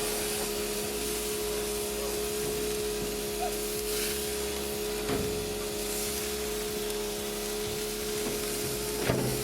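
Hamburgers sizzling on a grill, an even hiss over a steady low hum. A couple of sharp clicks come about five and nine seconds in.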